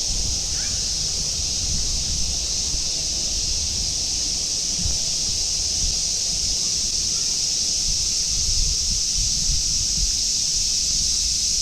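A chorus of cicadas giving a steady, high-pitched drone, with a low, uneven rumble of wind on the microphone beneath it.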